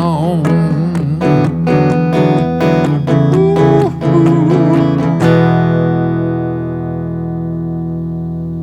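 Closing bars of a country song on guitar: picked notes and a wavering lead line, then a final chord struck about five seconds in that rings on and slowly fades.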